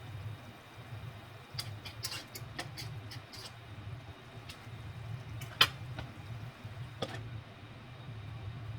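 Light clicks and knocks over a steady low hum. A run of quick clicks comes about two to three seconds in, then a single louder, sharper click just past the middle and a softer one later.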